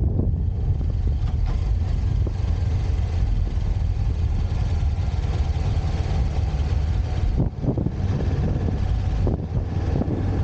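Motorcycle engine running steadily with a heavy low rumble, dipping briefly twice in the second half.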